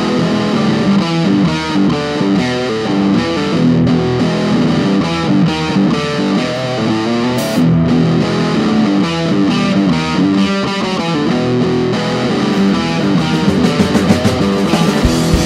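Instrumental opening of a rock song led by distorted guitar with effects, playing plucked notes and chords, no singing; sharper percussive hits grow busier near the end.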